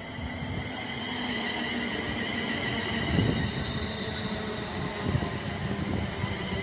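A train moving along the platform: a steady low rumble with a couple of knocks, and a steady high whine over it.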